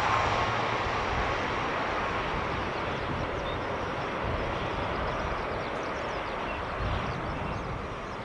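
ATR 42-600's Pratt & Whitney PW127M turboprop engines heard receding after takeoff, a broad drone fading steadily away.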